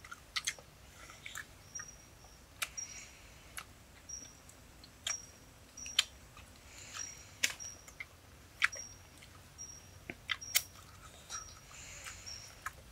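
Close-up wet chewing and lip-smacking of people eating cooked pig intestine, with scattered sharp mouth clicks. Short high chirps repeat every second or so behind it.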